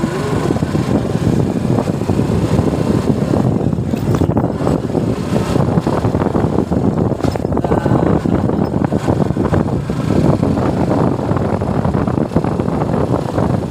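Suzuki Gixxer motorcycle riding along, its engine and road noise mixed with wind buffeting on the microphone.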